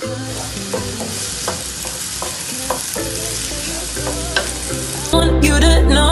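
Chopped onions sizzling in a hot non-stick frying pan as they are stirred with a wooden spatula, a steady hiss. Background music plays underneath and becomes much louder about five seconds in.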